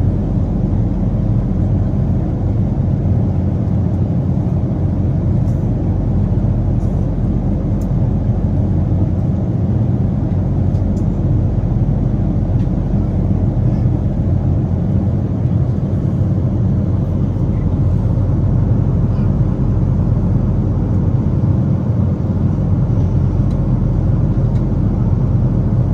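Steady low rumble inside a Boeing 777 passenger cabin, with engine noise running evenly and no change in level.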